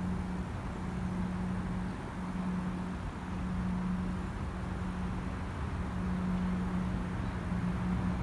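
Distant approaching train: a steady low engine hum that drops out briefly a few times, over a low rumble.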